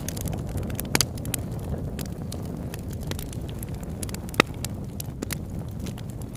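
Wood campfire crackling, with many small snaps and sharp pops over a steady low rush; the loudest pops come about a second in and about two-thirds of the way through.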